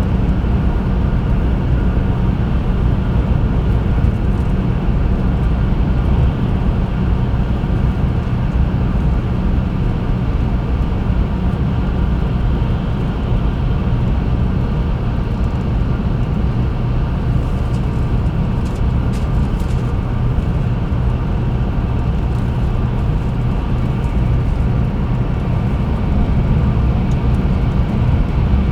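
Interior noise of a 300 series Shinkansen Green Car running on the line: a steady low rumble of wheels on rail and running gear, with faint steady tones above it.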